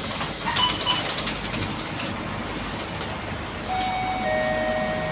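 Scania K230UB city bus running with steady engine and road noise, with a few rattles and brief tones about a second in. Near the end a two-note electronic chime sounds, the second note lower.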